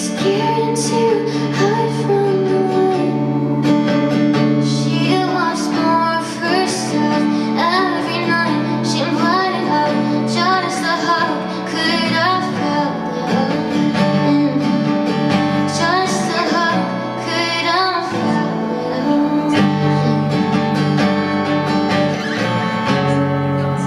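Woman singing a slow, somewhat sad pop song live, accompanied by sustained guitar chords.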